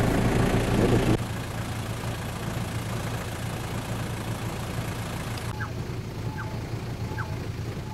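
Toyota SUV's engine idling steadily, louder in the first second. Near the end, faint short chirps repeat about every three-quarters of a second over the engine hum.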